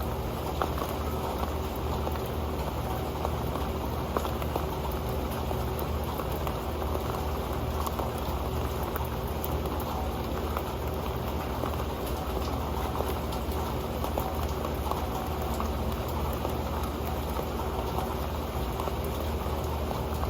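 Rain falling onto an old metal pan: a dense, steady pattering of drops on the metal.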